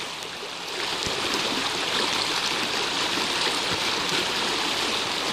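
A creek in flash flood, high, fast water rushing steadily as it rises toward the top of its bank.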